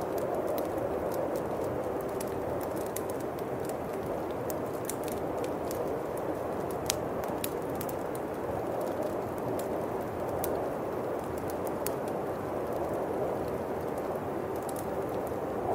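Howling winter wind, a steady noise that swells and eases, with a bonfire crackling over it in scattered sharp pops.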